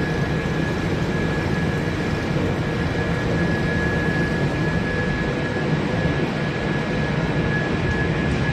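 Wood pellet production line machinery running steadily: a continuous rumble with a constant high whine over it.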